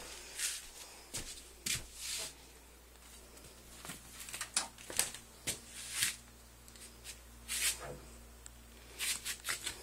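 Scattered footsteps, knocks and rustling of a handheld recording device being carried through a small room, with a faint steady hum underneath.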